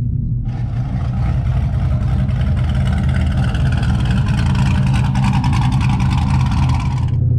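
Car engine running, heard from inside the cabin, under a loud rushing, whining layer spread across the higher pitches that starts sharply about half a second in and cuts off suddenly near the end.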